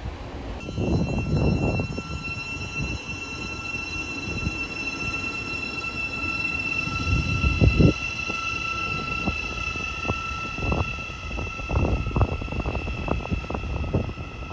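A train passing on the track, with a steady high whine at several pitches over irregular clunks and thumps from the wheels and running gear.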